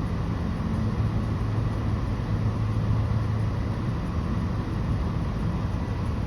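Steady low hum heard from inside a parked car, typical of the car's engine idling, strongest for the first few seconds.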